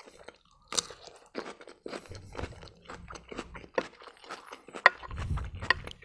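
Close-miked chewing of a crisp pickled cucumber: a string of wet, sharp crunches, the loudest about five seconds in.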